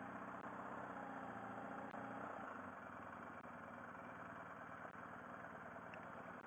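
Motorcycle engine running at low speed, its note clearest for the first couple of seconds and then settling into a steady, quieter hum.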